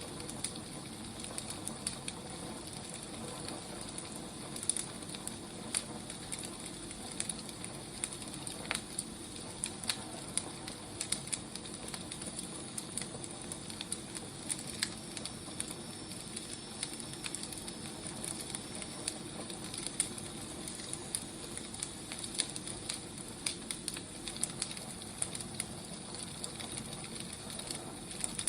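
Wood fire crackling: a steady hiss with frequent small, irregular pops and snaps.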